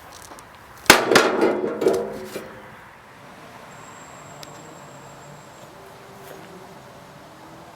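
A sharp metallic clang about a second in, followed by a clatter of smaller ringing clangs that die away within about a second and a half.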